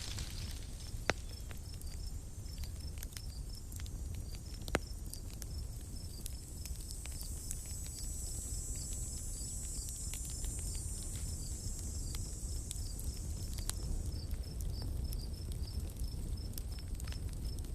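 Campfire crackling with scattered sharp pops, two louder ones about a second in and near five seconds in, over a low steady rumble. Crickets chirp in a regular high-pitched series throughout.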